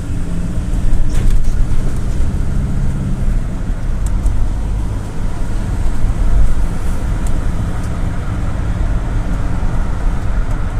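GAZ Gazelle City minibus heard from inside on the move: a steady engine drone and road rumble, with a couple of faint clicks.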